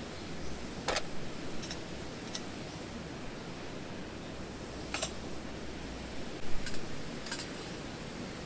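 Scattered sharp clicks, about six of them and unevenly spaced, over a steady background hiss.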